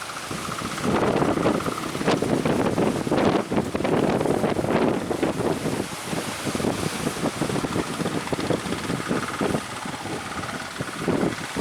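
Strong gusty wind buffeting the microphone at sea, rising and falling in loud gusts, with a faint steady whine coming and going behind it.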